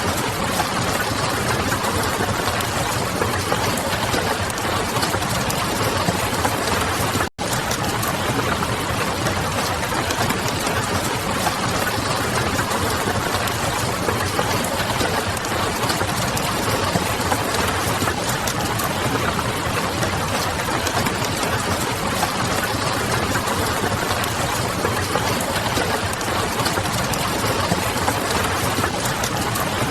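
Mixed ambience of steady rain and a crackling wood fire over a low city hum, an even hiss with no clear events. It cuts out for an instant about seven seconds in.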